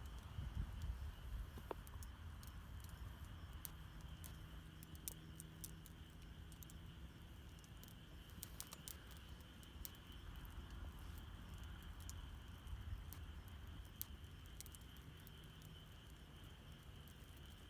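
Wood campfire crackling, with scattered sharp pops and snaps at irregular moments, some closely clustered. A faint steady high-pitched sound runs beneath it.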